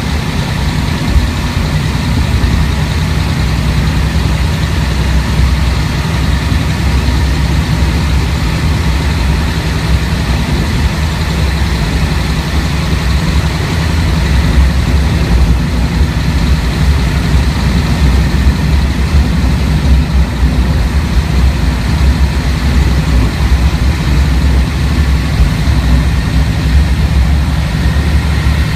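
Diesel engine of a Kashima Rinkai Railway 6000 series railcar running steadily under way, heard from inside the passenger cabin as a loud, low, steady drone.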